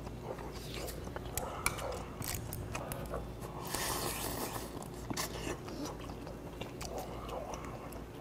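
A man biting and chewing a mouthful of shrimp close to the microphone: wet chewing with many small clicks and smacks and a few brief breaths.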